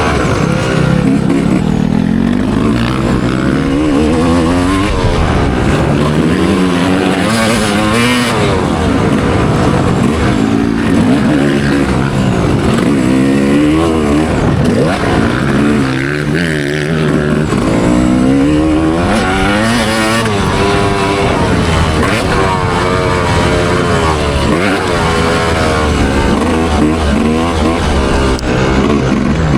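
Motocross bike engine revving hard and falling off again and again as the rider accelerates, shifts and brakes around the track, a quick rise and drop in pitch every second or two.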